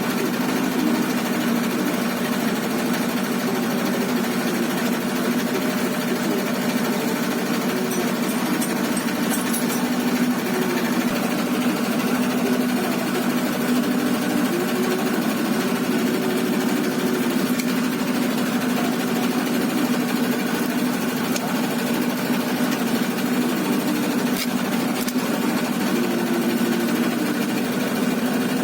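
Heavy diesel engine running steadily with a fast, even throb.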